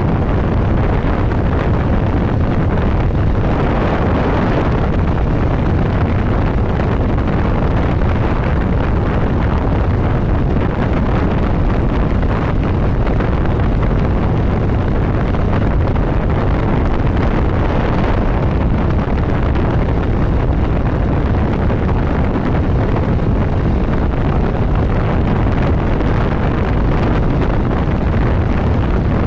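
Steady rush of wind on the microphone from a motorcycle riding at road speed, with the bike's running underneath. The noise swells briefly about four seconds in and again at around eighteen seconds.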